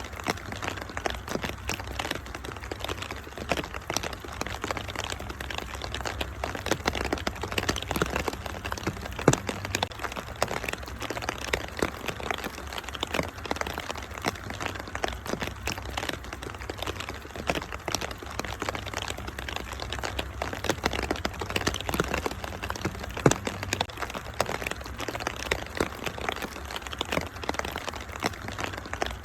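Wood fire crackling, with dense small pops and snaps over a steady hiss of rain and a low rumble. Two pops stand out louder, about nine seconds and about twenty-three seconds in.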